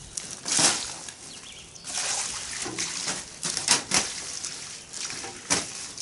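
Water splashing and sloshing on fresh concrete screed as it is wetted by hand, in a series of short, uneven swishes.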